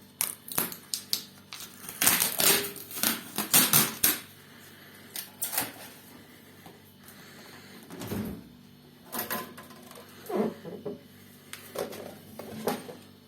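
Irregular clicks, knocks and clatter of hard objects being handled, densest about two to four seconds in, then sparser knocks.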